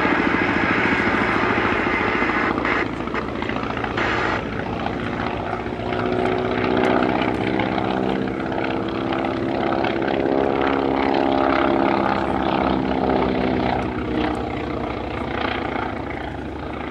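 Boeing P-26A Peashooter's 600-horsepower Pratt & Whitney Wasp radial engine running as the aircraft flies its display, the engine note shifting slightly in pitch midway through.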